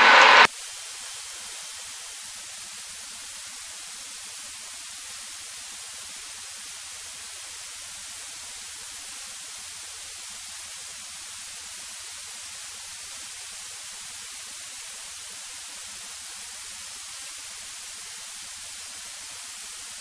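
Steady electronic hiss from the aircraft's intercom audio feed, even and unchanging, with no engine note coming through.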